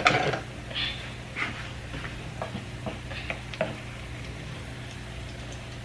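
Salmon croquettes shallow-frying in oil in a skillet: a low, steady sizzle with scattered pops and crackles, and a louder knock right at the start.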